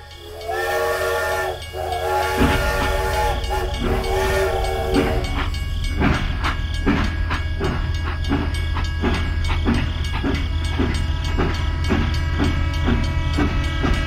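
Steam-train whistle blowing in three long blasts with a hiss of steam, then a steady rumble of a running train with regular chugging beats, about two a second.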